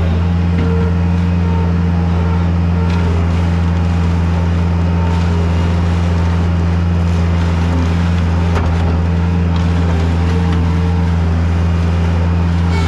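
Heavy equipment diesel engine running close by at a steady, constant speed, with a deep even hum.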